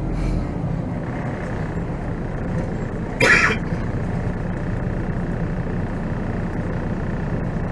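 Volvo B7R coach's diesel engine running steadily under way, heard from the driver's seat, with a brief louder burst of noise about three seconds in.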